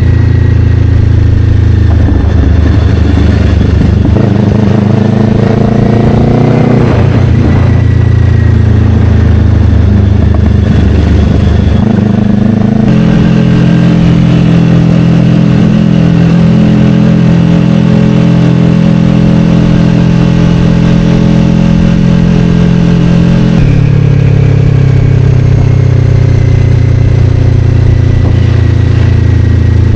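Kawasaki Ninja 500 parallel-twin engine with an Akrapovic slip-on exhaust, pulling under way. It revs up about four seconds in and changes pitch at about thirteen seconds, where it holds steady. It shifts again at about twenty-four seconds and then slowly drops in pitch.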